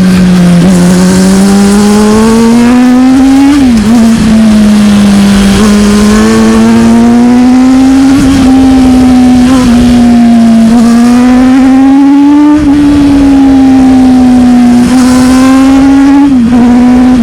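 Sport motorcycle engine with an unmuffled exhaust, heard on board while riding. Its pitch climbs steadily under throttle and drops sharply at each gear change, about three times, over steady wind rush.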